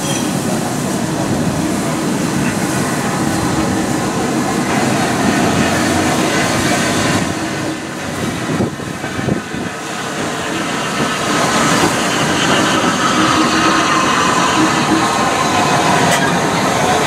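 Heritage railway train running along the track with a steady rumble and wheel clatter. The sound dips briefly about eight seconds in, then grows louder, with thin wavering high-pitched tones from the wheels in the last few seconds.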